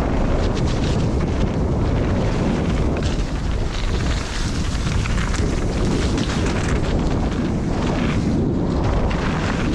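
Wind buffeting the camera microphone as a mountain bike descends a muddy trail, over a steady low rumble of tyres, with many small knocks and rattles from the bike over the bumps.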